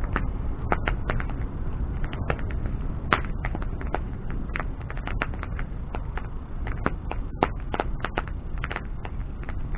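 Wood bonfire burning, with a steady low roar of the flames and frequent sharp, irregular crackles and pops from the burning wood.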